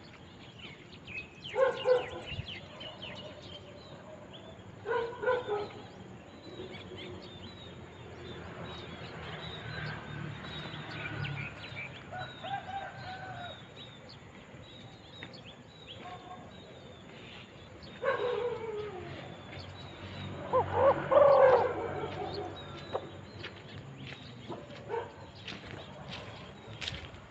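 Spotted doves cooing in several separate bouts of low, hooting notes, the loudest bout about two thirds of the way in. Thin chirps of smaller birds come in between, and a few short clicks near the end.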